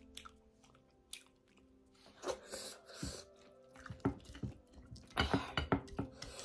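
Close-up chewing and mouth smacking of someone eating dried-fish curry with dhido, in short clusters of wet clicks that start about two seconds in and are loudest near the end.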